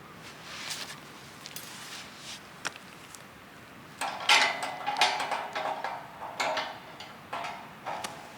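Metal camp gear being handled: scattered clinks and knocks, with a busier run of clattering from about four seconds in.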